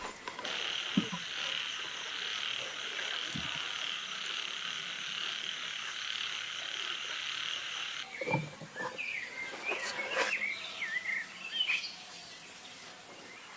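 A steady, high buzzing chorus of calling animals that cuts off abruptly about eight seconds in, followed by scattered short chirping bird calls.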